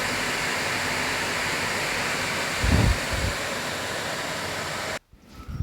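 Steady rushing of water, with a brief low thump about three seconds in; it cuts off suddenly near the end.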